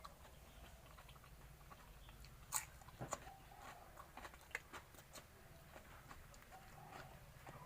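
Faint close-up eating sounds: a person chewing and biting food, with scattered soft crunches and clicks, the loudest a few seconds in.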